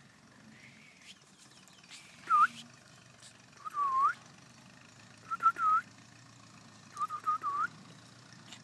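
Parrot whistling short swooping notes that dip and then rise in pitch: one, then a longer one, then two quick runs of several notes.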